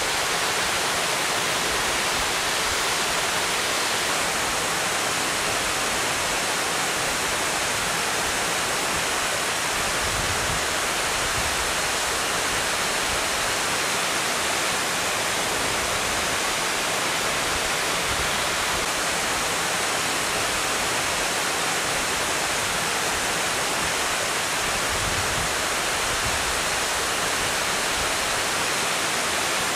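Waterfall crashing into its plunge pool: a steady, unbroken rush of falling water.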